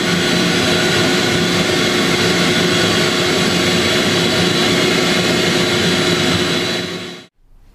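A loud electric motor running steadily at full speed, a whine with many steady tones over a broad rush of noise, which cuts off abruptly near the end.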